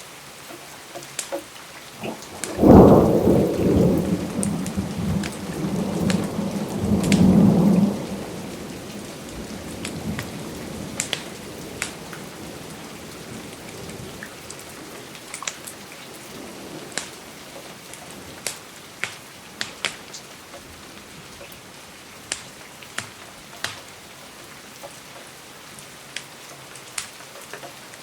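Steady rain with a thunderclap about two and a half seconds in that rolls on for about five seconds before fading. Scattered sharp ticks continue through the rain afterwards.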